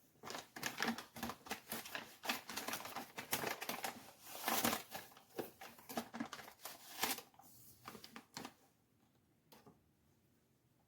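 Rapid, irregular clicking, rattling and crinkling of things being handled for about eight seconds, then two single clicks near the end.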